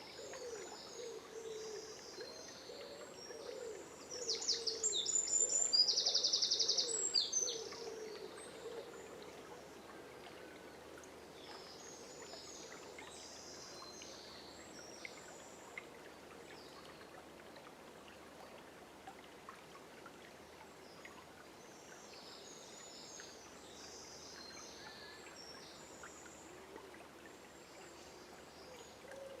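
Songbirds singing at dawn over the steady rush of a river. One bird sings a loud, fast trill about four to seven seconds in, and other high songs come and go through the rest.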